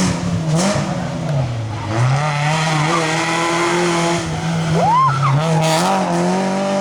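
Rally car engine through a hairpin: the revs drop as it slows for the turn, then pick up and hold as it powers out, with sharp cracks near the start and near the end.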